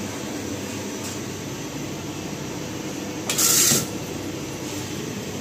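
Steady rumble and hum inside a train coach, with a short, loud hiss about three seconds in.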